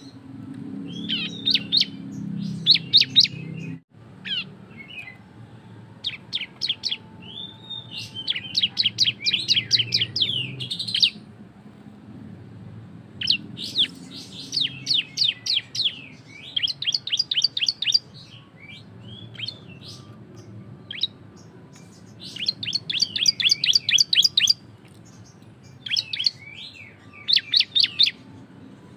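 A ciblek (prinia) singing its loud 'ngebren' song: runs of short, high, clipped notes repeated several times a second, each run lasting one to three seconds, with short pauses between.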